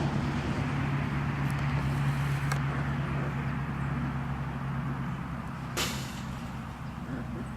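A steady low engine hum that slowly fades, with a sharp click just before six seconds in.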